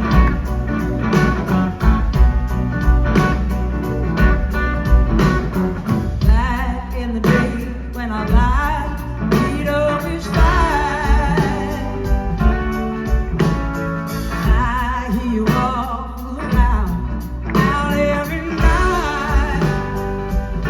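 Blues-rock band playing live, with drums and bass keeping a steady beat under guitars. From about six seconds in, a wavering lead melody line rises above the band.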